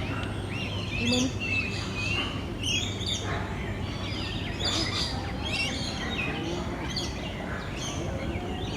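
A flock of birds chirping, with many short, high calls overlapping, some gliding up or down in pitch, over a steady low hum.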